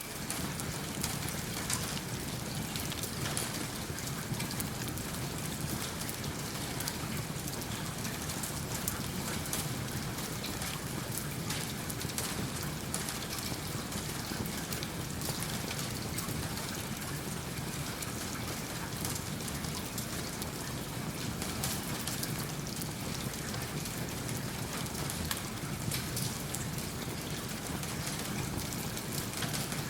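Steady rain falling, with a wood fire crackling in a fireplace: an even wash of rain with many small scattered sharp crackles and ticks throughout.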